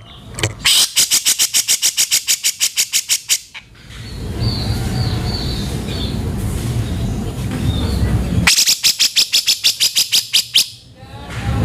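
Cucak jenggot (grey-cheeked bulbul) giving harsh, rasping rattle calls: two runs of rapid rough notes at about eight a second, each lasting two to three seconds, with a low rumble and a few faint high chirps in the gap between them.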